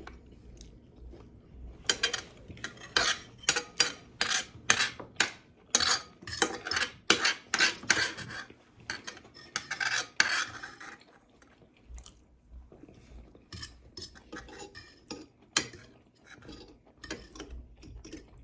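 Cutlery clinking and scraping on plates as the last of the food is scooped up: a dense run of sharp clicks and scrapes from about two seconds in, thinning out after about eleven seconds.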